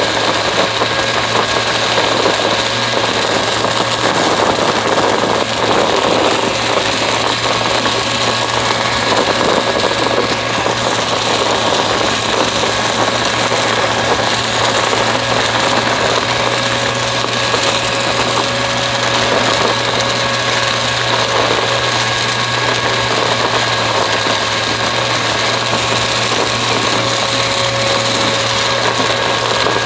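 Upright vacuum cleaner running steadily, its motor giving a constant hum with a high whine, over a rushing of air and scattered small crackles.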